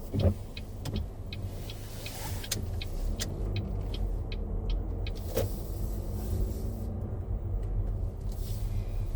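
Car engine idling, heard from inside the cabin as a steady low hum, with the heater fan running. Regular sharp ticks, about two to three a second, sound over it.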